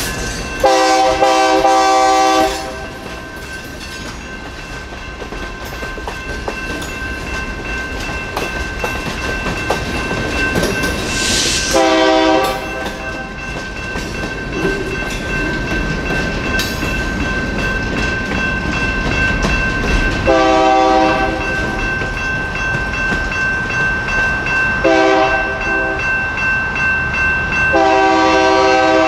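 Freight cars rolling through a grade crossing with steady wheel and rail noise, while the EMD SD59MX locomotives at the head of the train sound their multi-chime air horn: a blast of about two seconds near the start, three short blasts, and a long one at the end. A crossing bell rings steadily underneath.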